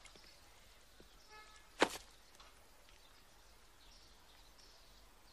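Birds chirping faintly in the background, with one sharp smack about two seconds in that is the loudest sound.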